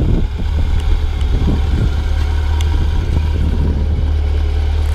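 Honda Nighthawk 750's carbureted four-cylinder engine running steadily with a low, even rumble, smooth and quiet through its stock exhaust.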